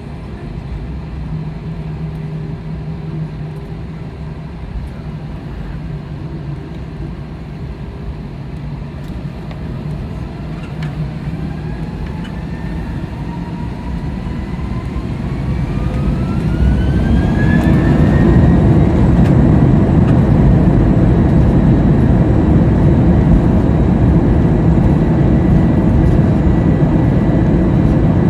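Airbus A321 jet engines spooling up to takeoff thrust, heard from inside the cabin. A whine rises in pitch over several seconds, and about seventeen seconds in the sound swells into a steady, loud roar at full power.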